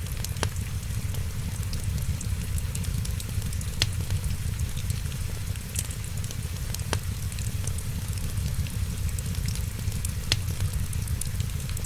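Wood fire crackling, with many small ticks and four sharp pops spaced about three seconds apart. Under it runs a steady hiss of rain and a low rumble.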